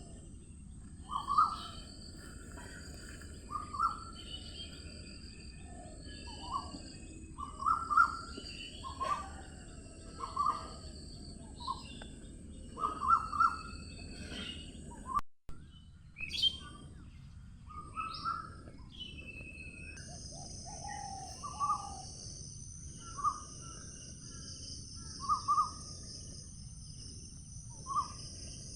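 Several songbirds calling and chirping in short, repeated phrases a second or two apart over a steady low background hiss, with a steady high insect buzz that grows fuller about two-thirds of the way through. A brief dropout cuts the sound near the middle.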